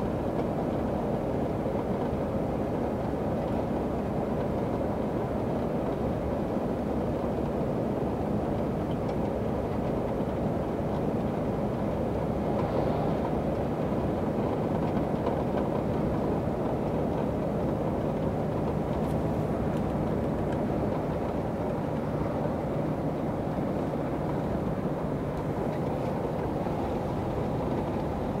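Heavy truck driving at steady speed, heard from inside the cab: a constant engine drone mixed with road and tyre rumble.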